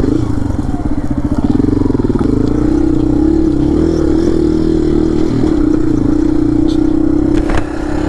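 Honda CRF100F dirt bike's small single-cylinder four-stroke engine running under way on a trail, heard up close, its note rising and falling with the throttle. There is a brief drop in level near the end.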